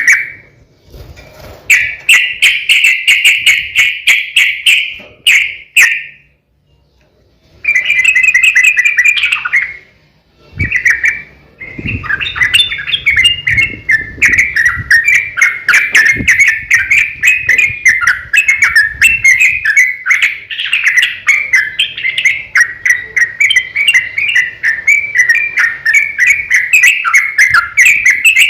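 Yellow-vented bulbul (trucukan) singing: a few separate chattering phrases with short pauses, then from about twelve seconds in a long unbroken run of rapid bubbling notes, the 'ropel panjang' long-run song used as a lure to set other bulbuls singing.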